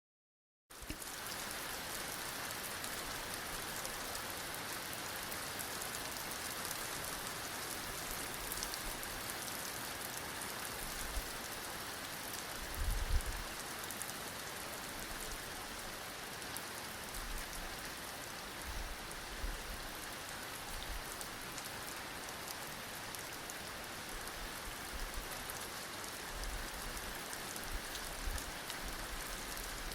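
Heavy rain falling steadily, a dense even hiss and patter of drops that starts abruptly just under a second in. A brief low rumble comes about halfway through, with fainter ones later.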